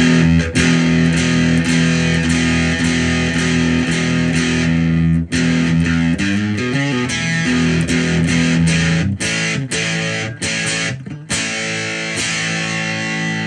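Electric guitar played through a Movall Jumpspace overdrive pedal with every knob at noon: overdriven strummed chords, a bent note about six seconds in, a few short stops, then a chord left ringing near the end.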